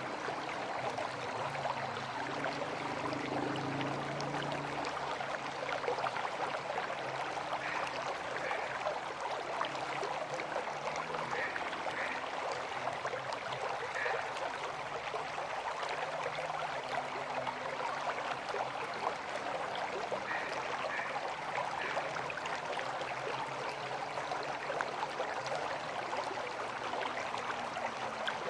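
River water flowing, a steady rushing hiss with no breaks.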